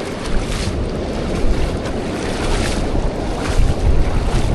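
Ocean surf washing up and running back over the sand, with wind buffeting the microphone in a heavy, gusting rumble.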